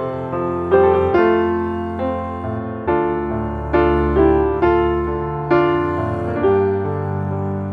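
Background piano music: a gentle melody of struck notes, each fading away.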